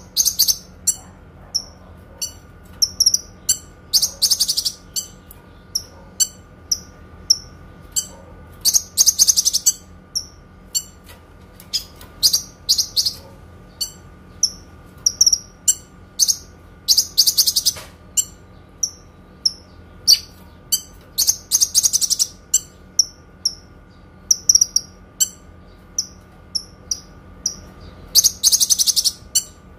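Kinoi songbird singing clearly: a steady series of short, high chirps, broken every few seconds by a fast, high trill lasting about a second.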